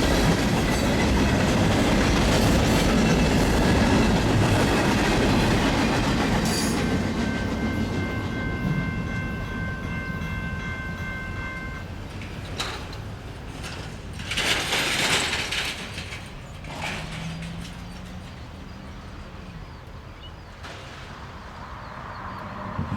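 CN freight train passing at speed, wheels clacking over the rail joints, loud at first and then fading as the train goes by. A steady high tone sounds for about four seconds midway.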